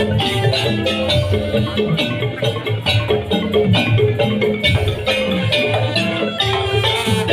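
Madurese daul (tong-tong) music: a percussion ensemble of bamboo slit drums, drums and gamelan-style metallophones playing a fast, steady rhythm with a repeating melody of struck notes.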